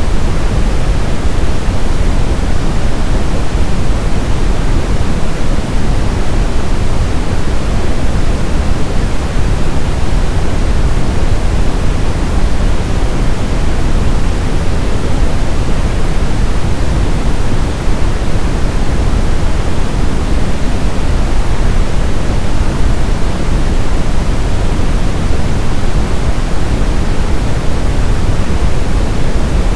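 Brown noise: a steady, even, deep rushing hiss with most of its weight in the low end, unchanging throughout.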